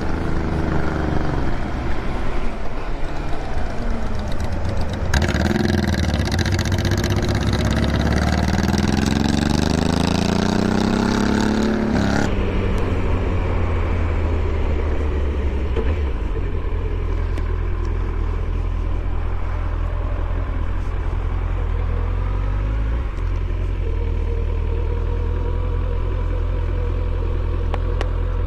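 Motorcycle engine under way, its pitch dipping and then climbing steadily as it revs up over the first dozen seconds. From about five to twelve seconds in there is a loud rushing noise, and after it the engine runs on at a steady low pitch.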